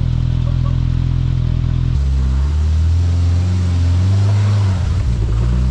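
Off-road vehicle engine idling steadily, then revving up about two seconds in, its pitch rising and wavering for a few seconds before easing back near the end.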